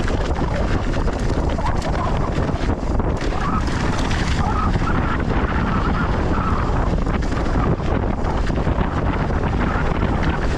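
Wind buffeting a GoPro's microphone during a fast mountain-bike descent, with a steady rush of tyres on loose volcanic soil and frequent knocks and rattles from the bike over rough ground.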